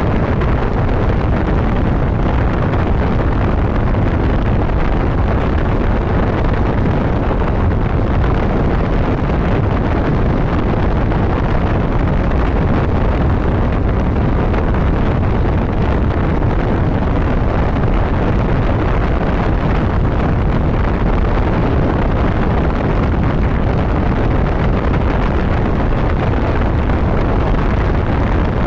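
Steady wind rush on the microphone of a moving motorcycle, with the running motorcycle's noise underneath; loud and unchanging throughout.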